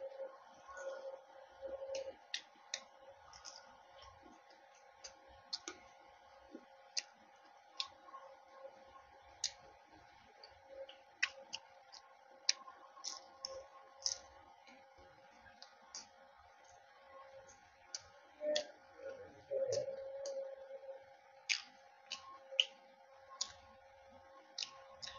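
Chewing a fried aloo samosa: crisp pastry crunches and mouth clicks, scattered irregularly at about one or two a second, over a faint steady hum.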